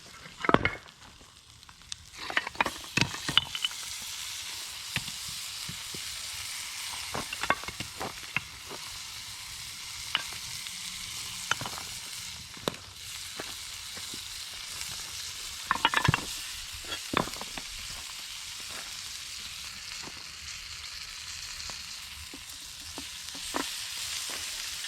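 Rocks knocking and clacking against each other as they are lifted off a hot rock oven, in scattered clusters of sharp knocks, over a steady high hiss.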